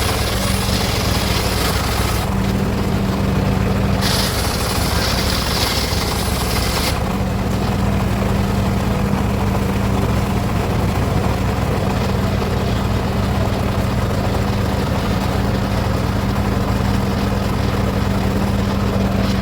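Circular saw running steadily with a constant motor hum while slicing teak wood; a loud high hiss of the blade cutting comes twice in the first seven seconds, then stops while the saw keeps running.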